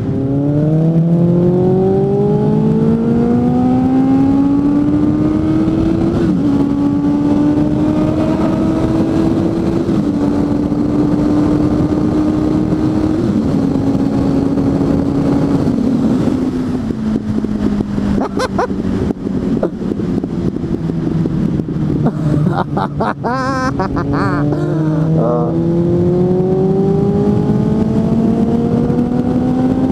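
Suzuki GSF 600 N's inline-four with an aftermarket exhaust, heard from the rider: it pulls up through the gears, the pitch climbing and dropping back at each shift. Midway it slows, and a string of crackling pops and backfires comes from the exhaust as it winds down. Near the end it pulls away again.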